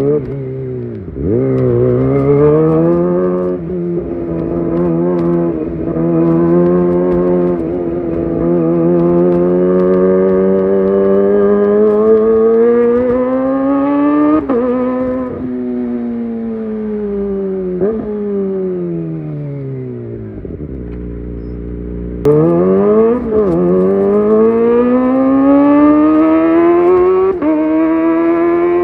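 Kawasaki ZX25R's 249 cc inline-four engine through a Leovince GP Evo exhaust, pulling through the gears: the pitch climbs in long sweeps and drops sharply at each shift. About two-thirds of the way in the engine slows with a falling pitch, then suddenly picks up and climbs again.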